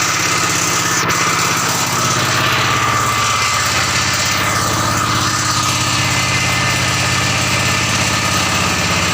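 Engine of a soil-exploration drilling rig running steadily at a constant speed, with an even, fast firing rhythm. A single brief click about a second in.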